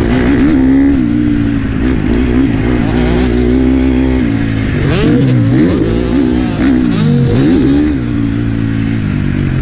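Motocross bike engine running on the track. It holds a fairly steady note at first, then revs up and down repeatedly from about five seconds in, as the throttle is opened and shut.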